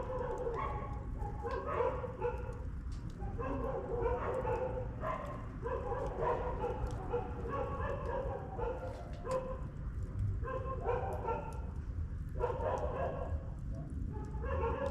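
A dog whining and whimpering in a run of short, pitched calls, over a steady low rumble and faint crackles from a campfire.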